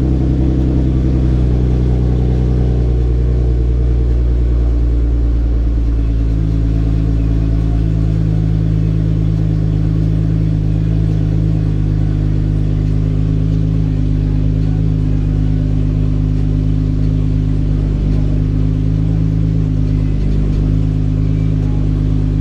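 Nissan GT-R R35's built twin-turbo 3.8-litre V6 idling steadily while it warms up after an oil change. The idle note shifts and settles about six seconds in.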